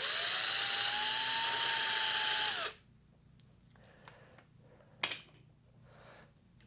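Cordless drill-driver backing a screw out, its motor whine rising slightly and then holding for about two and a half seconds before it stops. A single sharp click about five seconds in.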